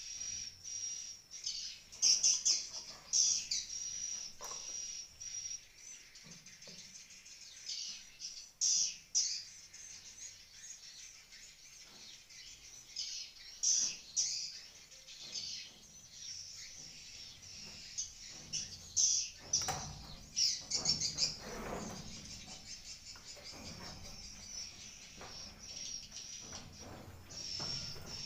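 Swiftlets twittering: a steady high chirping with louder bursts every few seconds, and some handling noise about two-thirds of the way in.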